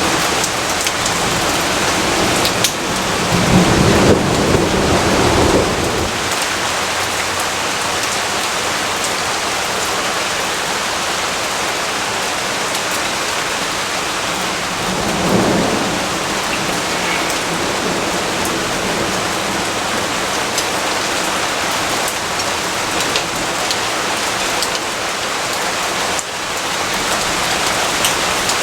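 Steady heavy rainfall hissing on surfaces, with a low roll of thunder a few seconds in and a shorter, fainter rumble about halfway through.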